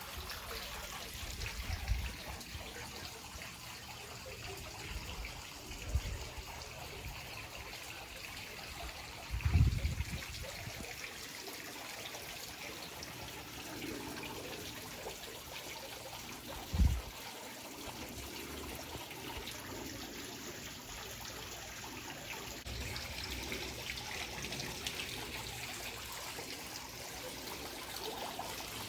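Water trickling steadily, with a few short low thumps, the loudest about ten seconds in.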